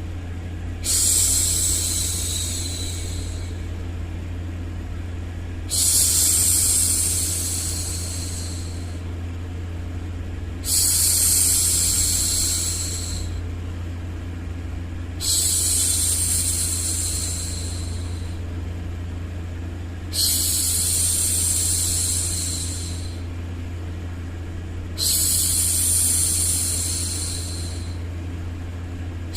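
A woman's long 'shhh' hushing sounds, six of them about every five seconds, each starting sharply and fading over two to three seconds, over steady white noise with a low hum.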